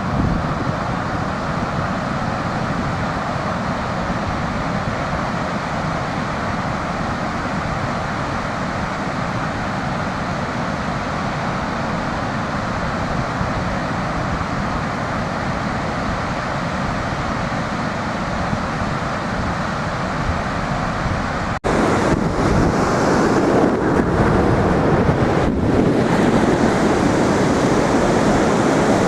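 Sea surf washing on the beach with wind buffeting the microphone, a steady rushing noise. It drops out for an instant about two-thirds of the way through, then comes back louder.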